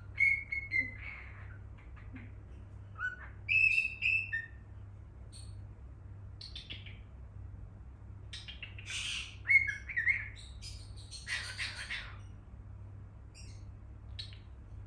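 Cockatiel chirping in short, scattered whistled calls, with a few harsher, screechy calls past the middle, over a faint steady low hum.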